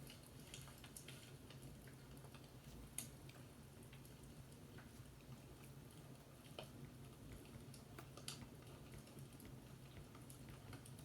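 Faint fireplace crackling: scattered irregular small pops and clicks over a steady low hum, one pop a little louder about three seconds in.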